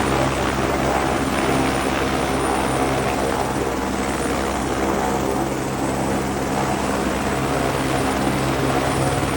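Helicopter engine and rotor running steadily: a continuous loud drone with a low hum of steady tones underneath.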